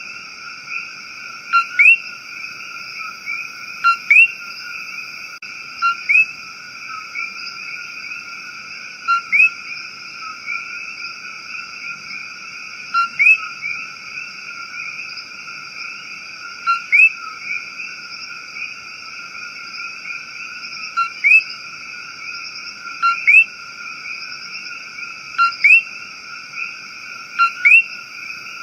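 Rainforest ambience: a steady, dense chorus of high animal calls, with a loud short rising call, often doubled, repeating about every two seconds.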